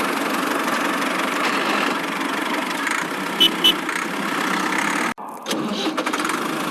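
A small motor running steadily, with two short high chirps about three and a half seconds in. The sound cuts out briefly a little after five seconds, then resumes.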